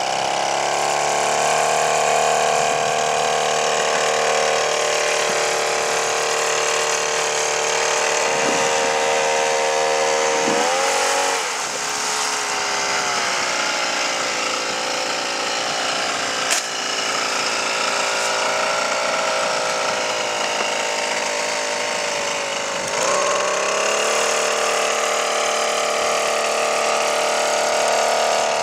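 Two-stroke petrol brush-cutter engine driving a homemade outboard boat motor, running at high revs. The revs drop about eleven seconds in and pick back up near twenty-three seconds; there is one sharp click about sixteen and a half seconds in.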